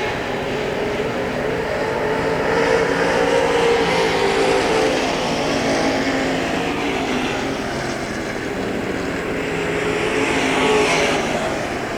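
Semi late model race cars running warm-up laps on the dirt oval. The engines swell as cars pass by, loudest about three seconds in and again near the end.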